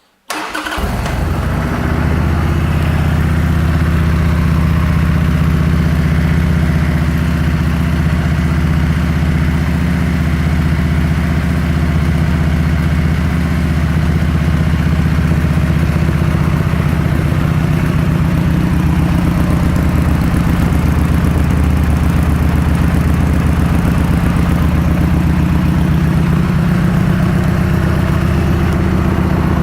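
2003 Harley-Davidson Sportster 1200 Custom's air-cooled V-twin fires up within the first second and settles into a steady idle. Its exhaust has a rumble, and the baffles might be drilled.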